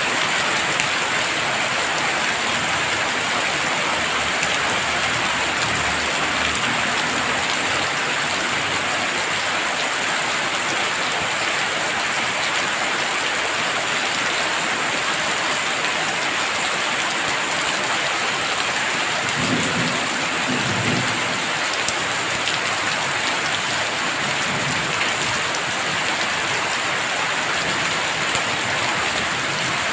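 Heavy rain pouring steadily, a dense, even hiss, with a brief low rumble of thunder about two-thirds of the way through.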